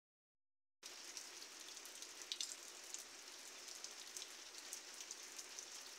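Rain falling on a roof: a faint, steady hiss with scattered drop ticks, starting just under a second in.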